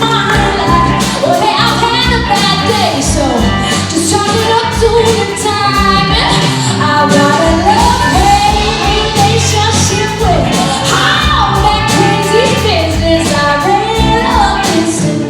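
Live rock band of electric guitar, bass and drum kit, with a lead vocal singing long sliding notes over the full band.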